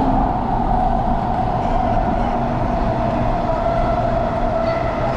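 Athens metro train running, a steady rumble under an electric whine that sinks slightly in pitch.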